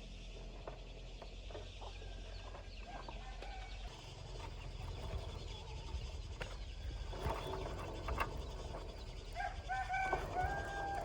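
Short animal calls, a cluster of them near the end, over a steady low hum and scattered small clicks.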